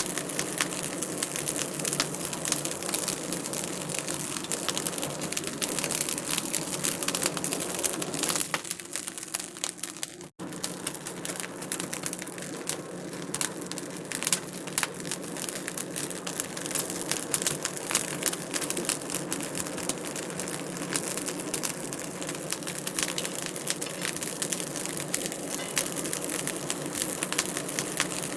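Wood fire crackling in a fireplace: a steady stream of small pops and snaps over a soft hiss. The sound briefly drops out about ten seconds in.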